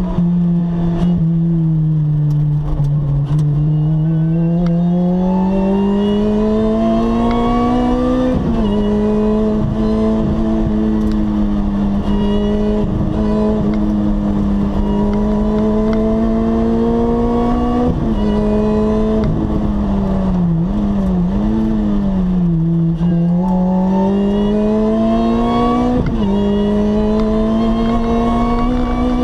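Lotus Exige S engine heard from inside the cabin at speed, its pitch climbing under acceleration and dropping sharply at each upshift, about a third of the way in, around the middle and near the end. In between there is a brief wavering dip and rise in revs.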